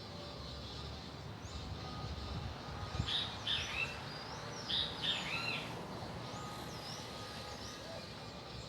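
Birds calling: short arching chirps, loudest in two clusters about three and five seconds in, with fainter ones before and after, over steady background noise.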